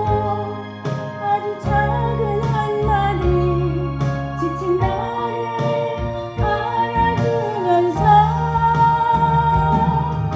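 A solo voice singing a slow Korean trot ballad over a backing track of bass and keyboard or guitar chords, with held, wavering notes.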